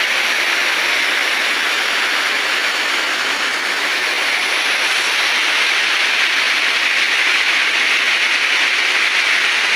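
Waterfall's steady rush of falling water, a loud even hiss with no breaks.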